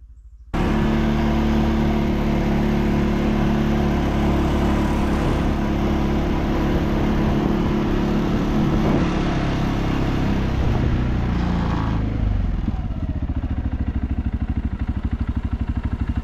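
ATV engine running steadily, then dropping in pitch about twelve seconds in and settling to an even idle putter. It cuts in and out abruptly.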